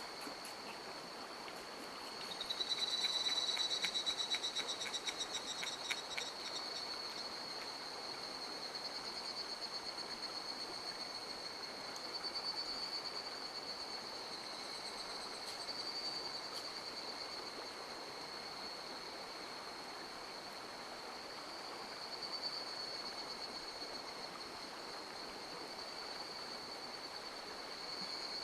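A mountain stream flowing, with a steady, high pulsing trill running over it and a louder, rapidly pulsing trill from about two to six seconds in.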